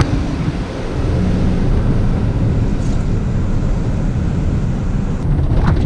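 Steady low rumble of a moving vehicle, with a few light clicks near the end.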